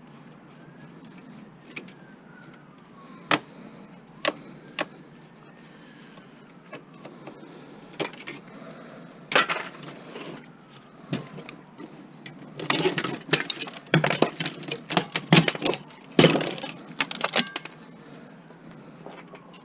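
Hard plastic and metal parts clicking and clattering as an old electronic console is taken apart by hand: a few separate clicks, then a busy burst of rattling and knocking in the second half.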